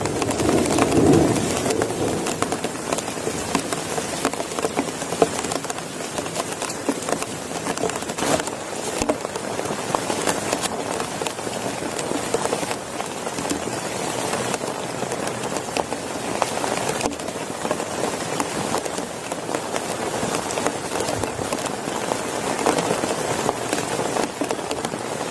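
Heavy rain falling steadily in a dense patter of drops striking a surface. A low rumble swells in the first couple of seconds.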